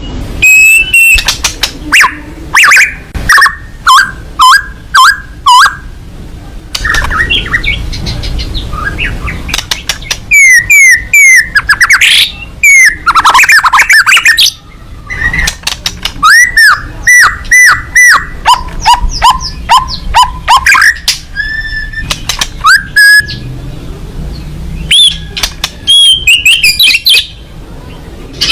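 White-rumped shama (murai batu) singing loudly, in rapid runs of sharp repeated notes and whistled phrases broken by short pauses.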